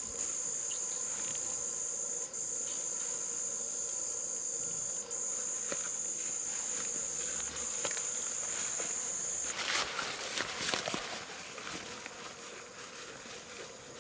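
Insect trilling: one steady, high, continuous buzz with a few split-second breaks, which cuts off suddenly about nine and a half seconds in. A second or so of rustling and crackling follows.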